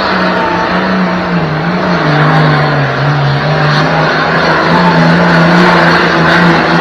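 Super stock pulling tractor engine running at full power under load while dragging the weight sled, its note wavering slightly up and down.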